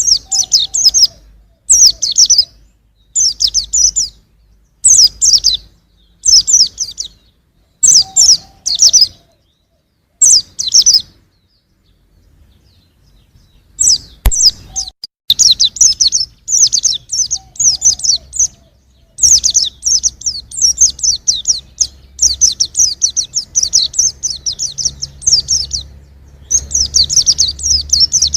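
Young white-eye (pleci) singing: bursts of fast, high twittering about a second long with short pauses between them, running into longer, nearly unbroken twittering in the second half.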